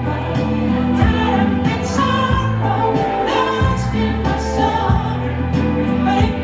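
Live band playing a soft-rock song, a woman singing lead over harmony vocals, with bass and drums keeping a steady beat.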